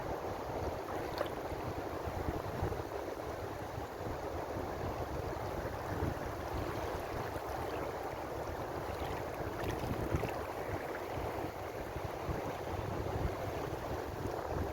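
Ocean waves washing steadily, with small splashes here and there.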